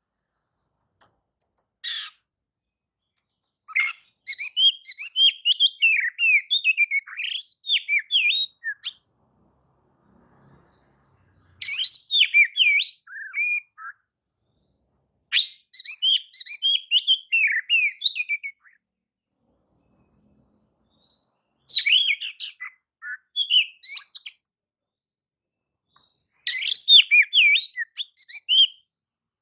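Oriental magpie-robin (kacer) singing clear, varied whistled song in bursts of several seconds, broken by pauses of a second or more.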